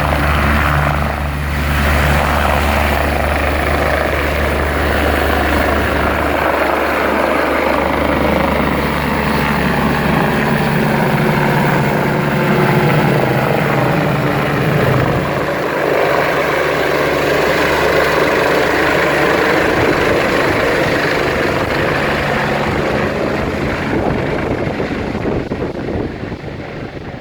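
Helicopter running loudly and steadily, with a continuous rotor and engine drone, fading away over the last couple of seconds.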